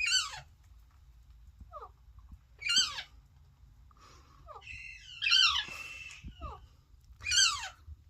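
Young parrot chick calling: four loud, short squawks, each sliding steeply down in pitch, about every two to three seconds, with fainter chirps between them.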